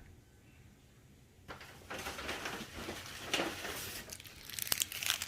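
Firework packaging being handled: rustling and crinkling with small clicks and knocks, starting about a second and a half in.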